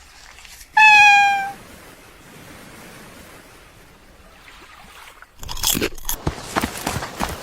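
A cat meows once, a loud, slightly falling call about a second in. Near the end comes a few seconds of crackling, scuffling noise.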